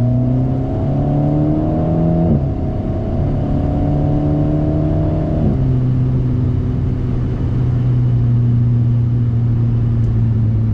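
Alpine A110's 1.8-litre turbocharged four-cylinder engine, breathing through a BDA Racing Track Evo stainless exhaust, heard from inside the cabin. The revs climb, drop sharply about two seconds in as with a gear change, climb again, drop once more about five seconds in, then hold steady.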